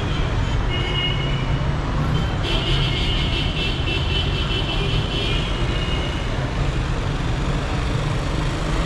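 Steady rumble of dense city traffic, cars and buses running close by. A horn honks briefly about a second in, then a longer honk runs from about two and a half to six seconds in.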